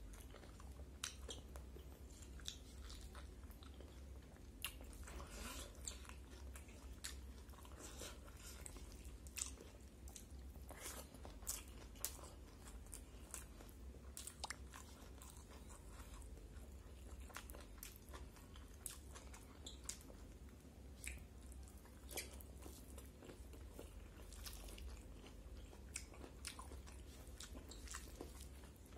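Faint close-up eating sounds: a person chewing and biting a mouthful of rice with cooked bamboo shoots, with irregular crisp clicks and crunches, over a steady low hum.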